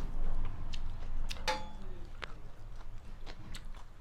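Close-miked chewing and mouth sounds of a person eating a rice-and-curry meal, with scattered small clicks and one sharper sound about a second and a half in.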